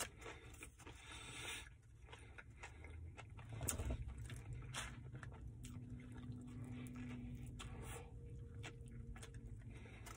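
Close-up chewing of a mouthful of Subway meatball marinara sub, with wet mouth noises and irregular small clicks and smacks.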